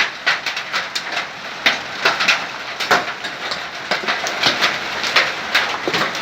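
Large hailstones, golf-ball sized, striking hard surfaces in a dense, irregular clatter of sharp knocks, several a second.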